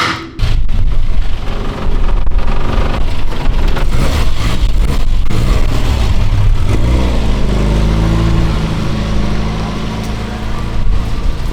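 A few knocks, then a car engine running loudly, coming in suddenly about half a second in. From about seven seconds it settles to a steadier, even note.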